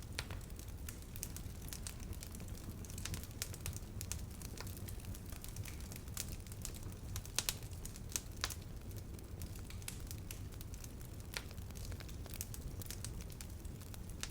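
Campfire burning: a steady low rumble of the flames with irregular crackling and snapping of burning wood, a few sharper pops about halfway through.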